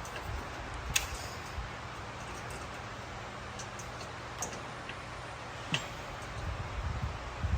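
A few sharp metallic clicks and taps from pins and hitch parts being handled, the loudest about a second in. A low rumble comes near the end.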